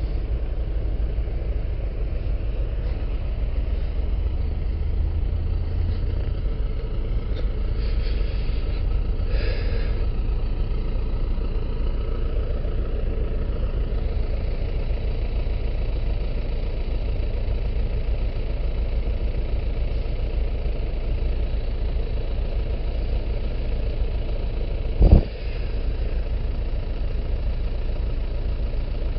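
Heavy vehicle engine running steadily at low speed, with one short, sharp knock about 25 seconds in.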